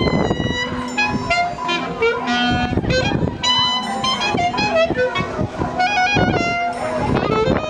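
High school marching band playing a melodic passage: brass and woodwinds in short, changing notes over drums.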